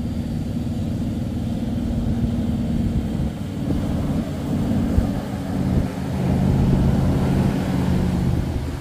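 Boat engine running steadily with a low rumble; its pitch rises and it gets a little louder about six seconds in.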